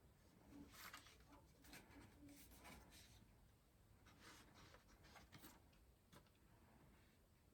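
Near silence broken by faint, scattered rustling, scraping and light taps of PC hardware being handled.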